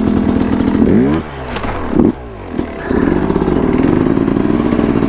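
KTM SX 150 two-stroke dirt bike engine revving in short blips, the revs falling away about a second in, then held at steady revs for the last two seconds, with some clatter and scraping from the bike.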